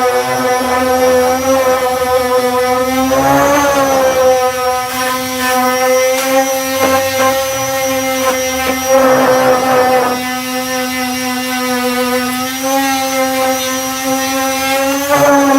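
Electric disc sander with a 240-grit disc running steadily on body filler, a constant motor hum that wavers briefly in pitch, with rougher scratchy sanding noise three times as it is worked against the surface.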